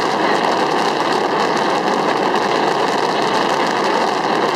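A barrage of fireworks bursting in rapid succession. The many small reports merge into one continuous, loud crackling din with no pauses.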